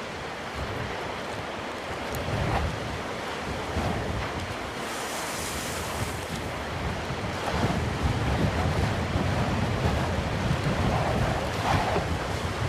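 Black Sea waves breaking and washing up the shore, with a hissing wash about five seconds in. Wind buffets the microphone with a low rumble, heavier in the second half.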